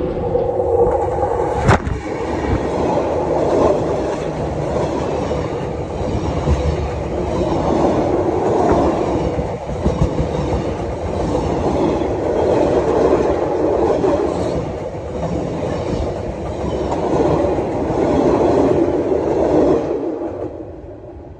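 Train running along the track: a steady rumble of wheels on rails with some clickety-clack, with a single sharp click a couple of seconds in. It fades away near the end.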